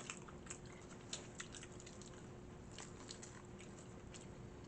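A person chewing fried fish and fries with lemon pepper, faint, with scattered small wet mouth clicks.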